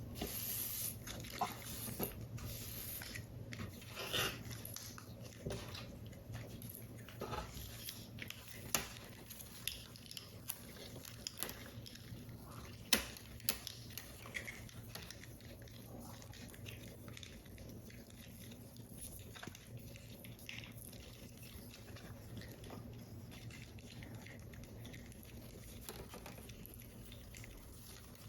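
Close-up handling of paper and thin card while a paper model is assembled: scattered soft rustles, taps and small clicks, with one sharper click about halfway through. A steady low hum runs underneath.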